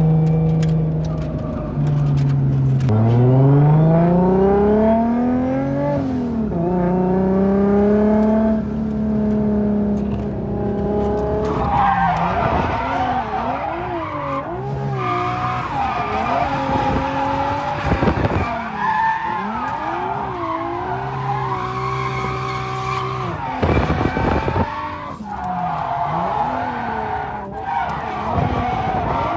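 Car engine holding steady, then revving up and falling back as the car slides sideways. From about twelve seconds in the tyres squeal almost continuously, their pitch wavering, while the engine keeps rising and dropping through the drift.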